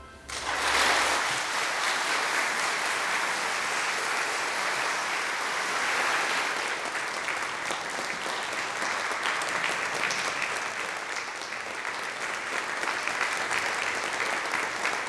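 Congregation applauding: steady, sustained clapping that starts just after the music ends and keeps on without letting up.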